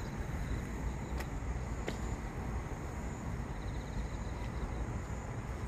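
Rain falling: a steady hiss with a few sharp ticks.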